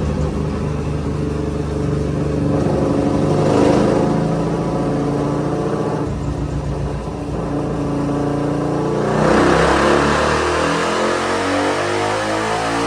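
Carbureted big-bore Suzuki DR-Z400 single-cylinder engine running on a motorcycle dyno, revving briefly a few seconds in, then from about nine seconds into a wide-open-throttle dyno pull with the engine note rising steadily in pitch.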